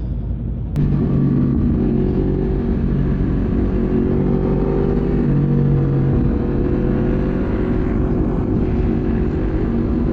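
Sport bike engine running at a fairly steady speed under the rider, with road and wind noise. The sound jumps suddenly louder about a second in.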